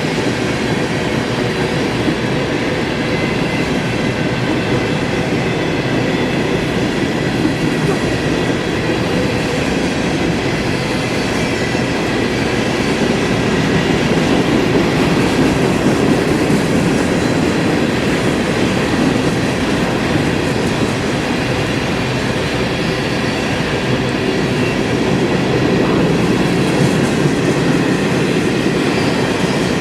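Freight train cars rolling past: a steady rumble and clatter of steel wheels on the rails, with a faint high wheel squeal.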